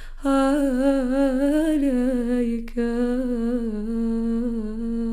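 A solo singer humming a held, gently wavering melodic line in a low steady pitch, the closing phrase of a nasheed. A quick breath just before it starts and another break about two and a half seconds in.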